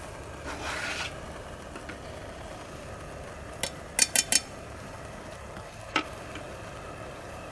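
Cooking utensil stirring and clinking against a pot: a brief scrape about half a second in, a quick run of four sharp clinks around the middle, and one more clink near the end.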